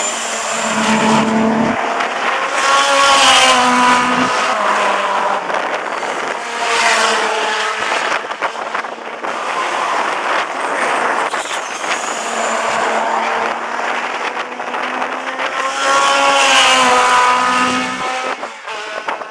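Cars lapping a race circuit, engines revving up and down as they go through the gears and pass, loudest about three seconds in and again near seventeen seconds.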